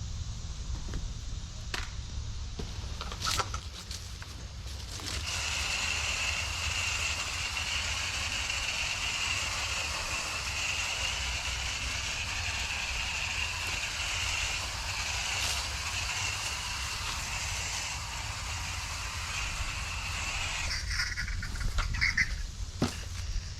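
A spray nozzle hisses steadily as the HVAC coil is sprayed clean. The spray starts about five seconds in and cuts off sharply near the end, over a low steady hum, with a few knocks before and after.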